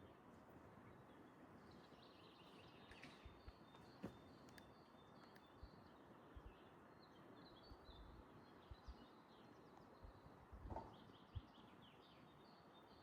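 Faint small birds chirping in short repeated high notes over a quiet, even outdoor hiss, with a few soft low thumps scattered through.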